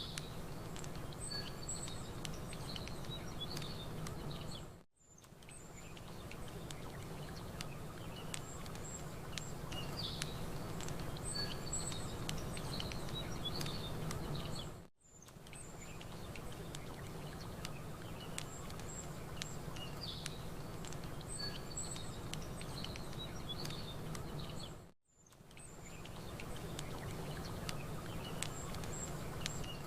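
Looped nature ambience: a steady low wash of lake water with campfire crackle and small birds chirping in short high calls. The sound briefly fades almost to silence and back three times, about ten seconds apart, as the same short recording repeats.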